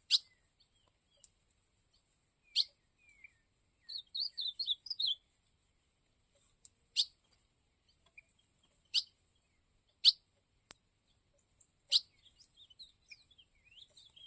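Ultramarine grosbeak (azulão) calling: sharp single call notes every one to three seconds, a quick warbled phrase about four seconds in, and soft twittering notes near the end.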